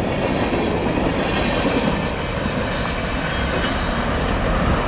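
A CSX local freight train's cars rolling past, a steady rumble of steel wheels on the rails.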